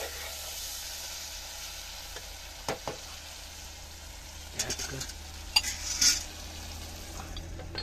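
Vegetables and freshly added tomato frying and sizzling in a small metal pot while a spoon stirs them, scraping against the pot, with a few sharp clinks of the spoon on the metal, the loudest about five and a half and six seconds in.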